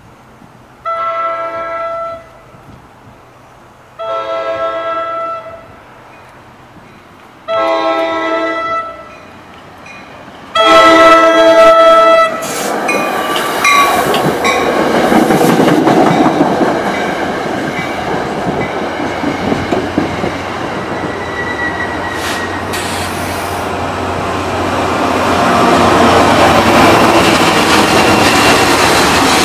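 Commuter train horn sounding four separate blasts, then the train passing close by as a steady rumble of wheels on rail. The rumble swells again near the end as the diesel locomotive at the rear goes past.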